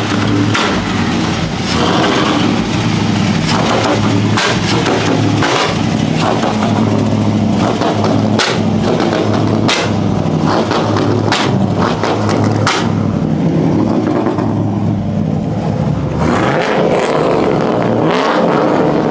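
Car engines running and revving, a steady low drone with occasional sharp cracks.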